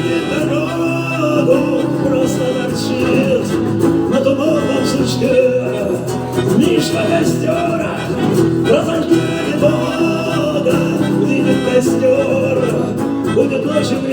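Live rock band music: an instrumental passage with a wavering lead melody over steady accompaniment.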